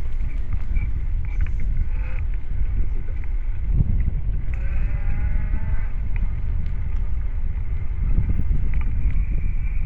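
Wind buffeting the microphone of a camera carried on a moving bicycle, a steady low rumble. About halfway through, a short pitched sound, call-like and slightly rising, sounds over it.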